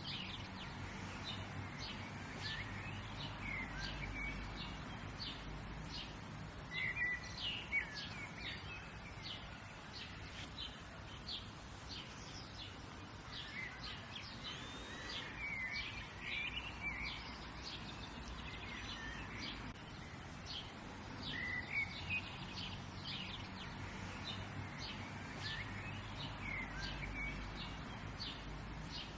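Songbirds chirping and calling in quick short notes, several at once, over a steady low outdoor rumble.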